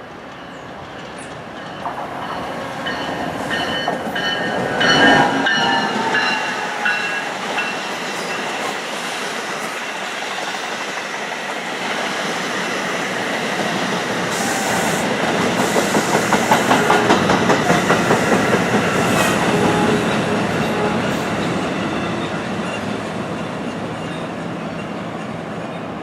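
Electric passenger train passing through the station: the rumble builds, with high squealing wheel tones a few seconds in, then a run of rhythmic clacks as wheels cross the rail joints around the middle, before it slowly fades.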